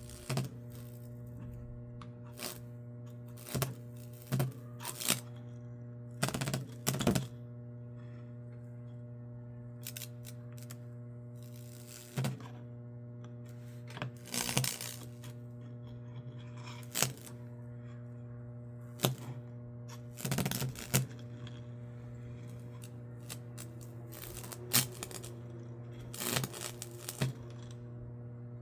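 High-voltage microwave oven transformer rig humming steadily while burning a Lichtenberg figure into wood, with sharp crackles and pops of arcing coming irregularly every second or two.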